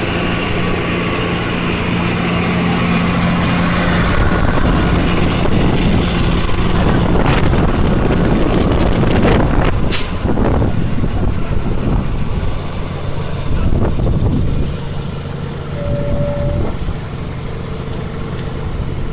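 A large vehicle engine running steadily over broad rumbling noise, with a few knocks about halfway through.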